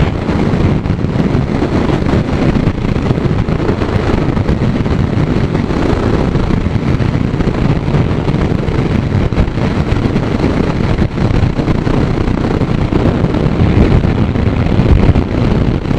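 Heavy wind buffeting the microphone of a motorcycle moving at speed: a loud, steady rumble with no breaks.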